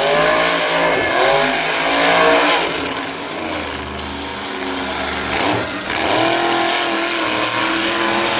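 Monster truck engine revving, its pitch climbing and falling in the first few seconds, then rising again and holding steady near the end.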